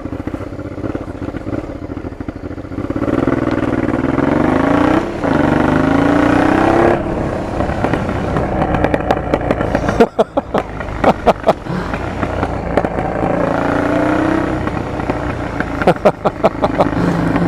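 Honda Transalp PD06's V-twin engine through an aftermarket MIG exhaust, revved up several times, with a cluster of sharp, loud backfire pops from the exhaust about ten seconds in and again near the end. The backfiring comes from air leaking in through defective rubber intake boots, which the owner thinks are cracked.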